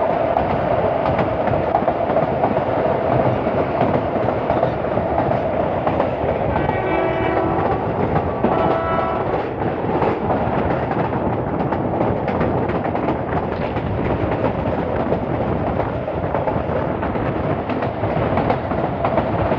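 Passenger train running along the track, heard from a coach window as a steady rumble of wheel and rail noise. The locomotive horn sounds two short blasts about seven and nine seconds in, the warning for the level crossing the train passes just after.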